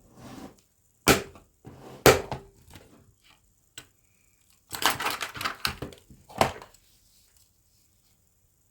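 Small model parts being handled on a work surface: two sharp knocks about a second apart, then a quick run of clicks and crinkling rustles, as parts and their packaging are picked up and put down.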